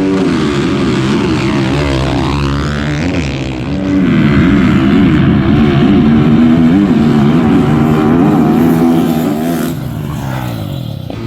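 Small off-road racing engines revving, their pitch wavering up and down, growing louder about four seconds in.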